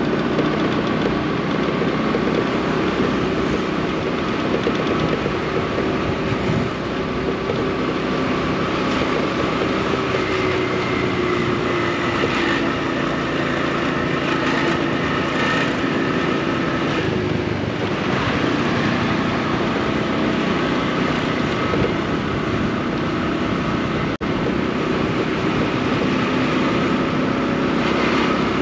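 Small motorcycle engine running steadily at low speed, its pitch drifting slightly with the throttle, over city street background.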